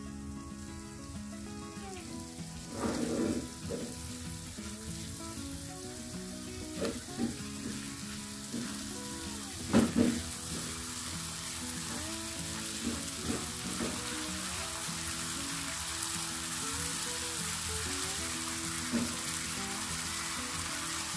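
Ground spice paste sizzling in hot oil in a non-stick frying pan as it is sautéed down until dry and fragrant, the sizzle growing louder in the second half. A few scrapes of a silicone spatula stirring it, the loudest about ten seconds in, with background music underneath.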